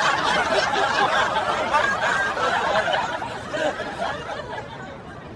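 Laughter that fades out gradually over the last couple of seconds.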